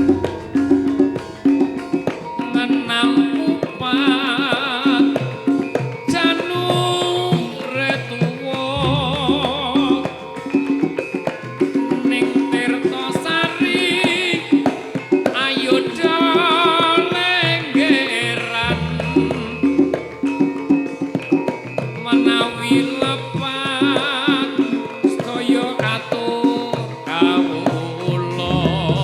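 Javanese gamelan music: a Tari Topeng gending pambuko (opening piece) played by the ensemble, with busy drumming and metallophone patterns, a wavering melodic line above, and a deep gong stroke about every ten seconds that rings on.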